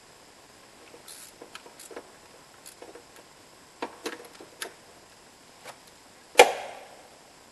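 Hand tools clicking and knocking during work on an engine's belt and pulley, with one loud sharp knock that rings briefly about six seconds in.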